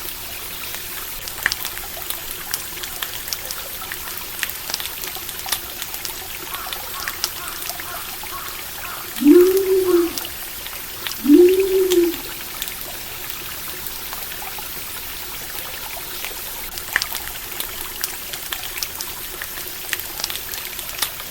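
Running stream water trickling steadily, with a campfire crackling in small sharp pops. About nine seconds in, two loud, low animal calls come two seconds apart, each rising and then falling in pitch.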